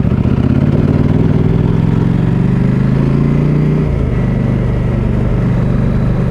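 KTM 890 Adventure R Rally's parallel-twin engine running on the move, its pitch climbing slowly for about four seconds. It then drops suddenly as the throttle is rolled off or a gear is changed, and runs on steadily at the lower pitch.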